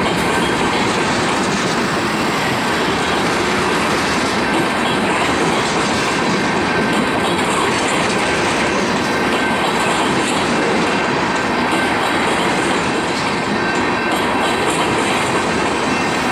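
Freight train's open-top stone cars rolling past close by: a steady rumble and clatter of steel wheels on the rails.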